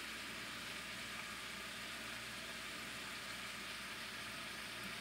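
Frozen mixed vegetables sautéing in coconut oil in a wok, giving a steady, even sizzle.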